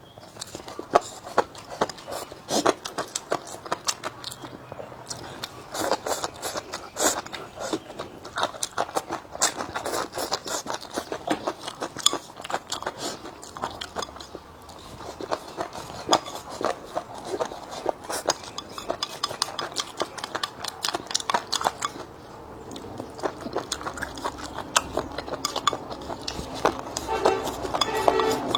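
A meal being eaten: utensils clicking irregularly against bowls and plates, with chewing and crunching.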